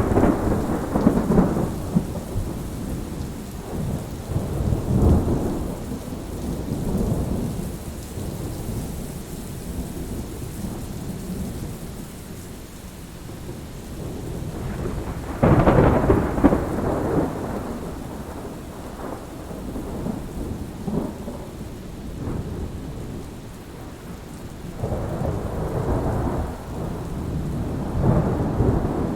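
Steady rain with repeated rolls of thunder: rumbles near the start and around five seconds in, a sharper, louder clap about halfway through that rolls on for a few seconds, and more rumbling near the end.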